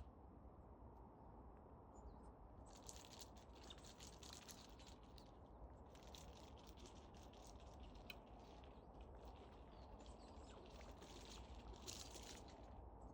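Faint scratching and clicking from red squirrels, coming in several short bursts over a steady low background hum.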